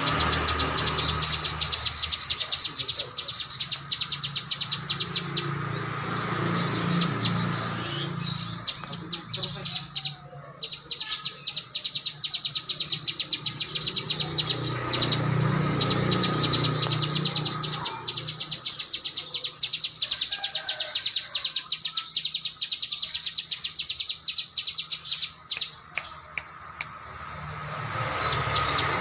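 Small songbird singing a 'tembakan' song: long, very rapid runs of high, evenly spaced notes, broken by short pauses. A faint steady high buzz runs underneath.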